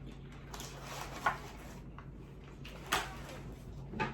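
A few short knocks and clicks from food containers and utensils being handled while eating, about a second and a half apart, over a low steady background.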